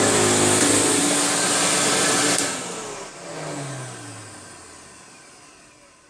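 A 1980 Electrolux 502 upright vacuum cleaner running loudly with its motor and brush roll. It is switched off about two and a half seconds in, and the motor winds down with a falling whine that fades away.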